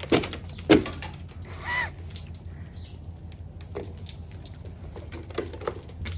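Boots stepping on ice-glazed steps and ground: two sharp cracks in the first second, then scattered small crunches and ticks. A short squeaky note comes about one and a half seconds in.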